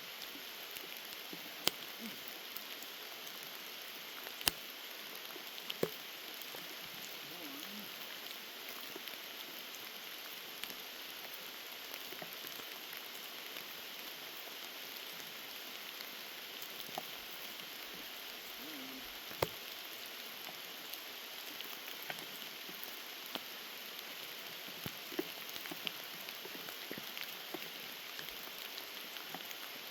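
Steady heavy rain hissing, with a handful of sharp ticks scattered through it.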